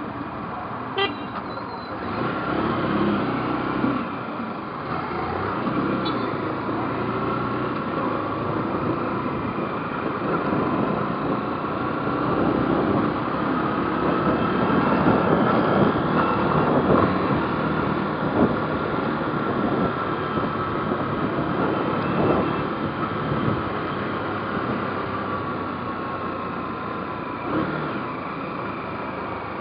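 Motorcycle riding on the road, its engine running under wind and road noise, with the engine's pitch slowly rising and falling as the speed changes.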